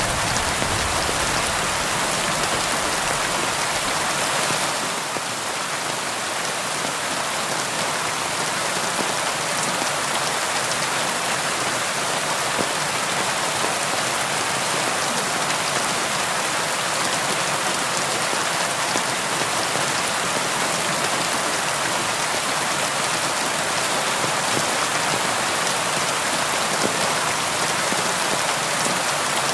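Steady, dense rain falling on a window. A low rumble underneath dies away within the first few seconds.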